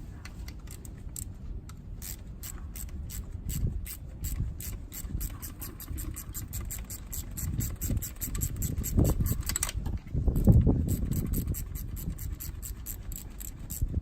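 Hand tools and parts being worked on a 1989 Honda NSR250R motorcycle engine during disassembly. A steady run of sharp clicks goes about four a second, with the loudest, heavier clunks of parts being handled about nine to eleven seconds in.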